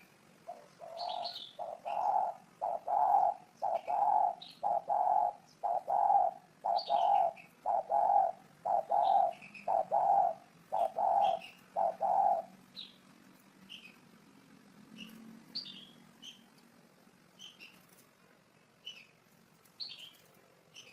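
Spotted dove cooing: a long run of evenly spaced low coos, more than one a second, that stops about twelve seconds in. Short high chirps from another small bird are heard throughout.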